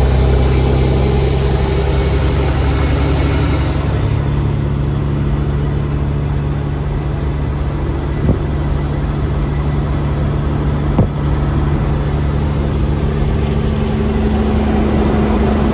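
Peterbilt semi truck's diesel engine running under way, a steady low drone with a high whistle that rises then falls in pitch over the first few seconds. Two short clicks sound about eight and eleven seconds in.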